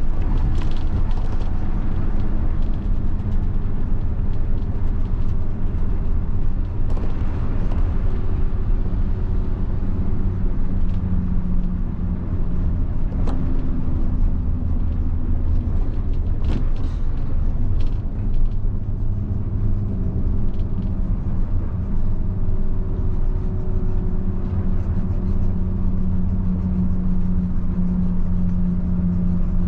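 1990 Mitsubishi Fuso bus's 7.5-litre diesel engine running under way, a steady low rumble whose engine note rises and falls as the bus drives, with a few brief clicks and knocks.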